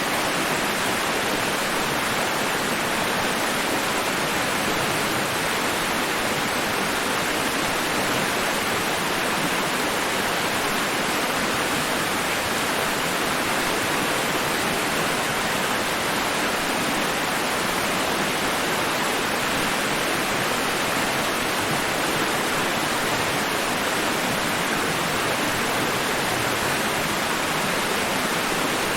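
Continuous white-noise hiss, even and unchanging, with no rise and fall of breaking waves.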